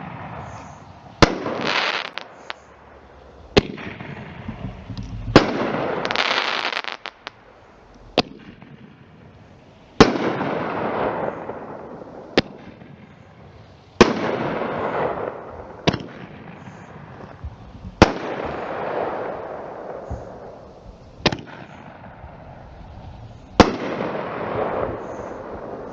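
Consumer firework cake firing in a demo: a sharp bang roughly every two seconds, each followed by crackling that trails off.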